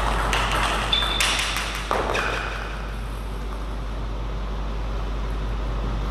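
Table tennis ball clicking off bats and the table a few times in the first two seconds, with two brief high squeaks among the hits. After that only a steady background hum remains.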